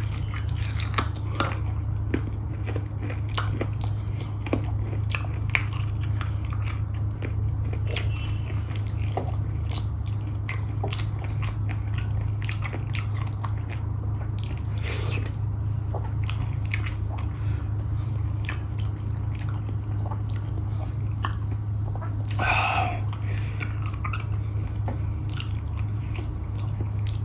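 Close-up eating sounds: a person chewing and biting food, with frequent wet mouth clicks and smacks, over a steady low hum.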